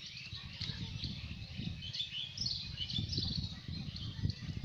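Small birds chirping and calling repeatedly, over a low, uneven rumble.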